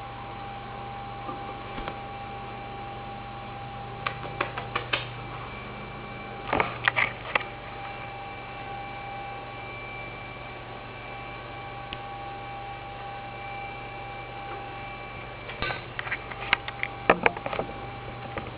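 Three short runs of quick light tapping and clicking, like a Meyer's parrot's claws pattering on a hard surface as it runs, over a steady electrical hum. The last run, near the end, is the longest and loudest.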